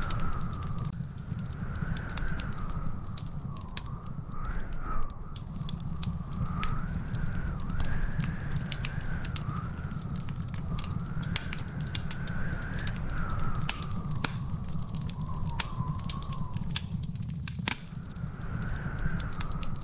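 Wood fire crackling, with frequent sharp pops and snaps over a steady low rumble. A faint high whistle wavers up and down in pitch throughout.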